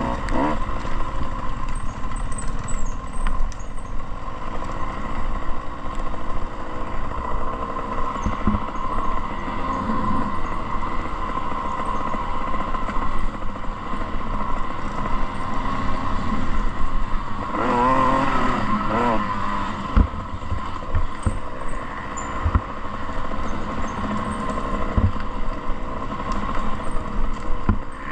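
Off-road motorcycle engine running on a motocross track under a steady rush of noise. Its pitch swings up and down with revving about two-thirds of the way through, followed by several sharp knocks.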